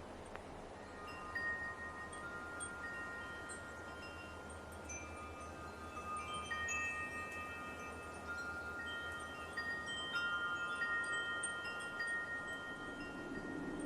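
Wind chimes ringing: several long tones at different pitches struck one after another from about a second in, overlapping and dying away slowly, over a steady hiss of light wind.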